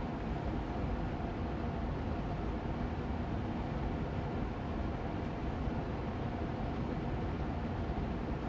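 Austin Air Allergy Machine air purifier fan running steadily on medium speed: an even rushing hum of moving air with a faint steady tone in it.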